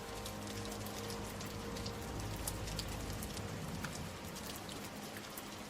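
Steady rain falling, a soft even patter with scattered drop ticks. The last faint notes of music fade out about two seconds in.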